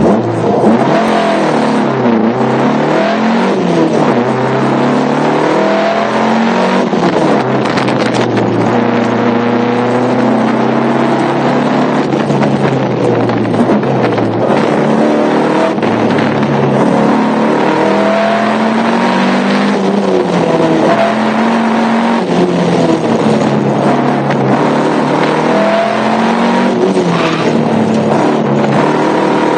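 Car engine heard from inside the cabin, driven hard: its pitch climbs and drops repeatedly as it is revved through the gears and lifted off for corners.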